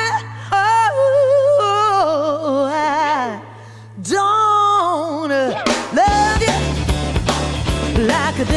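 Blues-rock music: a lone lead line of bent, wavering notes with heavy vibrato over a held bass note, then the full band with drums comes in about six seconds in.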